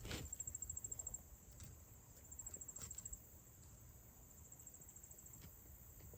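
Insects chirping faintly in short, high, rapidly pulsed trills about a second long, repeating three times and growing weaker. A single soft knock sounds right at the start.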